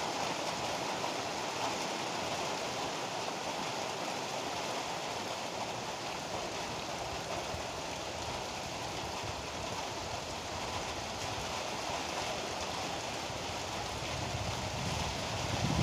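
Heavy rain pouring down steadily in a thunderstorm. Near the end, a low rumble of thunder swells up.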